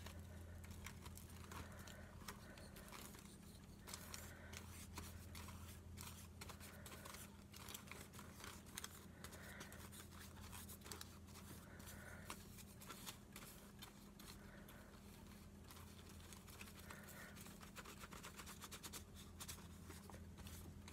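Near silence: a steady low hum under faint scattered clicks and rustles of paper and craft tools being handled on a table.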